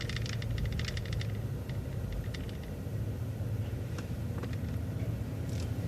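City bus driving along a street, heard from on board: a steady low rumble of engine and road, with light rattles and ticks that are densest in the first second.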